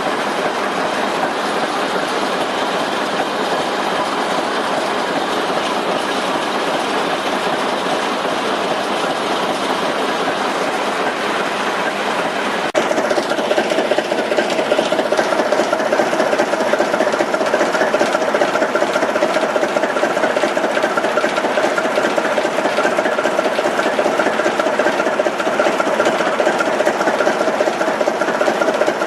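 Train running on rails, a steady rushing rumble. About halfway through it gets louder and a steady humming tone comes in and holds.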